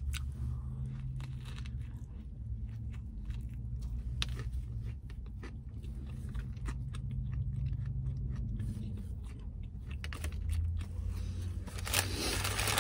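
Close-up chewing of a Burger King Steakhouse burger with crispy fried onions: many short wet mouth clicks and crunches, and another bite taken near the end. A steady low hum runs underneath.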